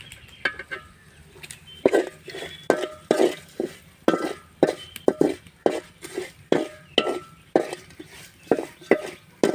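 A metal spoon stirring masala in a metal cooking pan, knocking and scraping against the pan's side about twice a second with a short metallic ring, as the spice powders are mixed in.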